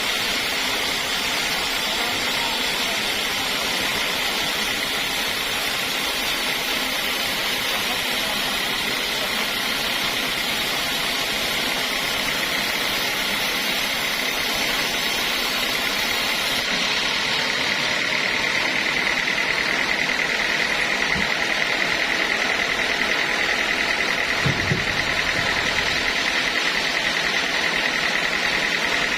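Sawmill saw machinery running steadily with a constant high whine, growing slightly louder about two-thirds of the way through.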